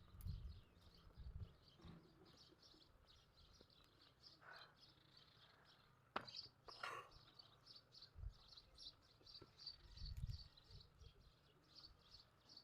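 Faint, high-pitched bird chirps repeating several times a second, with a few low thumps near the start and about ten seconds in.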